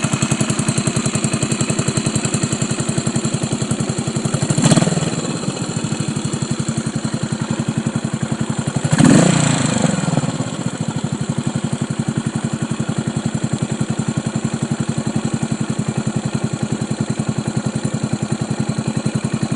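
Yamaha SR400 FI single-cylinder engine idling through a Supertrapp muffler, with an even thumping beat. The throttle is blipped briefly twice, about four seconds apart, and the revs rise and fall back to idle each time.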